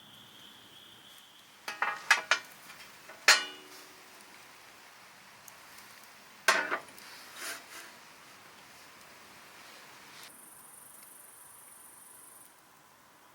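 Metal camp cookware and utensils being handled: a few clinks and knocks. The loudest, about three seconds in, rings briefly; another cluster comes around the middle.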